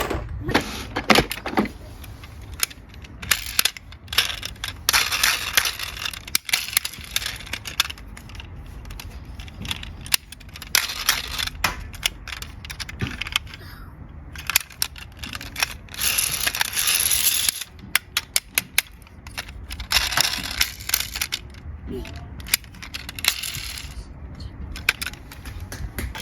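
Small diecast toy cars clicking and clattering against each other and a hard surface: a long string of sharp knocks with short rattling stretches between.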